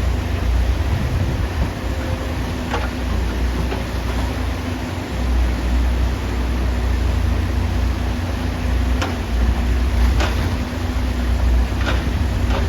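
Excavator's diesel engine running steadily with a low rumble, with four sharp knocks or clanks spaced through it.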